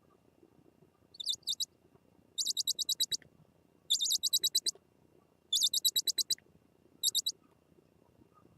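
A bird calling in five short bursts of rapid, very high-pitched chips, each burst lasting under a second.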